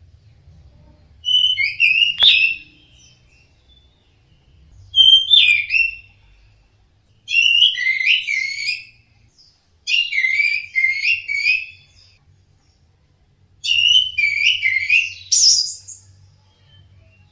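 Orange-headed thrush singing: five varied, whistled phrases of one to two seconds each, separated by short pauses. There is a sharp click during the first phrase.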